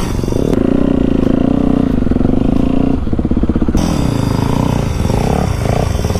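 Motorcycle engine running under throttle on rough ground, its pitch rising and falling as the revs change.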